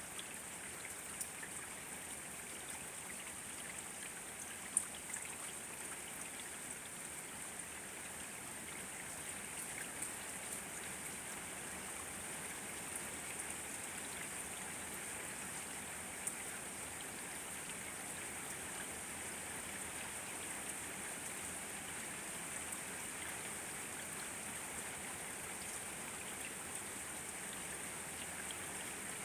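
Steady rain falling, an even hiss with a few sharper drop ticks now and then, the strongest about five seconds in.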